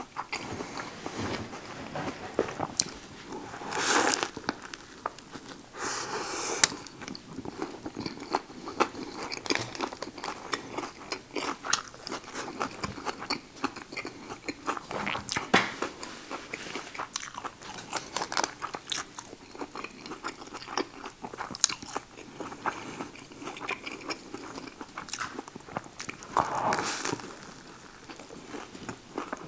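Close-up chewing and biting of a Subway buffalo chicken sandwich on wheat bread with lettuce, cucumber, green peppers and spinach: a steady run of wet mouth clicks and crunches, with a few louder crunches about four, six and twenty-seven seconds in.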